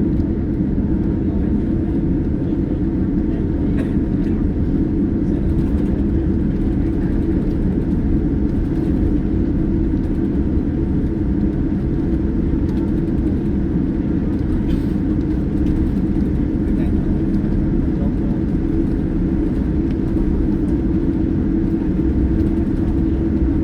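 Steady engine and airflow noise inside the cabin of a Boeing 787-9 airliner, a loud even rumble with a constant hum that does not change.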